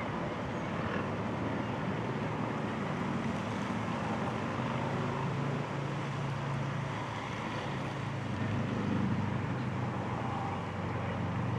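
An engine idling with a steady low hum, under wind noise on the microphone.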